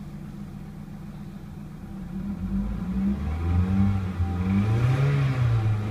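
2001 Toyota Celica GT's 1.8-litre four-cylinder engine, a high-mileage engine with about 191,000 miles, idling steadily, then revved up about two and a half seconds in, its pitch rising and held raised.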